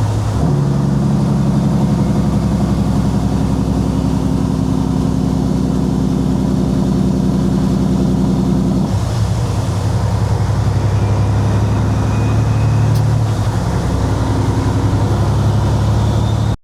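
Kenworth W900 semi truck's diesel engine running steadily while driving. About nine seconds in, its note drops abruptly to a lower pitch and carries on there.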